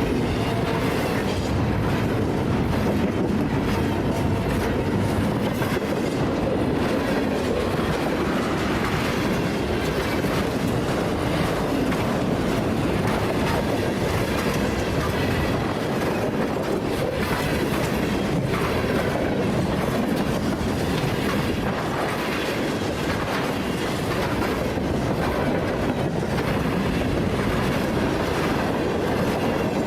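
Freight train cars rolling steadily past on the track.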